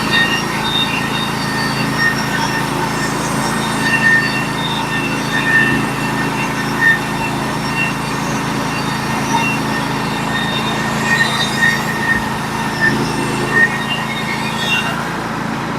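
Norwood HD36v2 portable band sawmill cutting through a log: the mill's engine runs steadily under load while the band in the cut gives off high squealing tones that come and go. The band is one resharpened to a 7-degree hook angle and not set.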